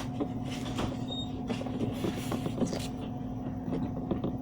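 Light scattered clicks and taps of utensils and containers as food is dished onto a plate, over a steady low hum.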